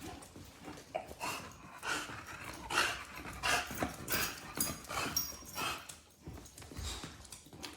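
A dog breathing noisily in quick, short huffs, two or three a second, as it pants and snuffles.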